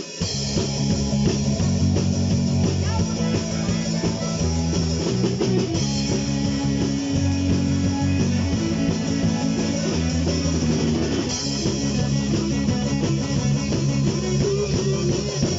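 Rock band playing the instrumental intro of a song: guitar and drum kit over low held notes that step from one pitch to the next.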